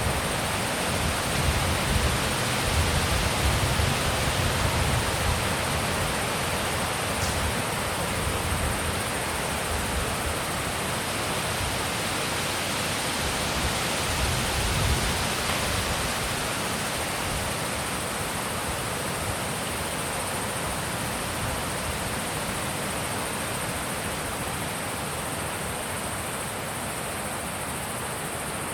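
Wind blowing in a steady rush, with low gusts buffeting the microphone in the first few seconds and again about halfway, easing slightly toward the end.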